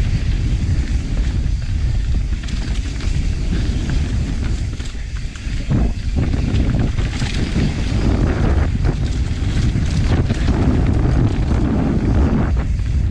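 Wind buffeting the microphone as a mountain bike rides downhill, with the rattle and knocks of the bike over rough trail.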